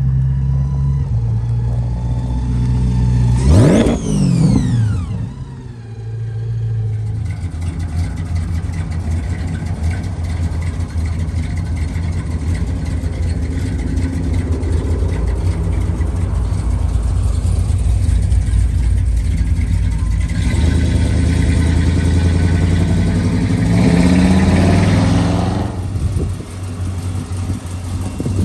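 Car engine idling with a steady low hum. About three and a half seconds in it revs sharply and falls back, and it revs again briefly near the end.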